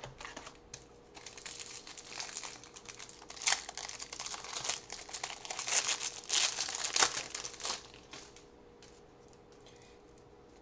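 Trading-card pack wrapper crinkling and tearing as it is opened and handled, an irregular crackle that is loudest just before it dies away near the end.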